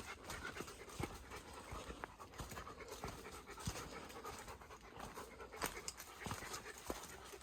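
Heavy panting breath of a hiker on a steep trail, with footsteps landing on the ground about once a second.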